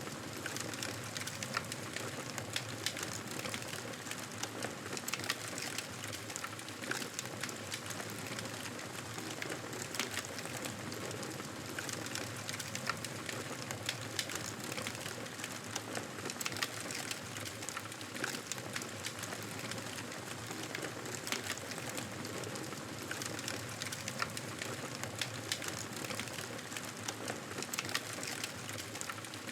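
Campfire burning with a steady hiss and frequent small crackles and pops of burning wood.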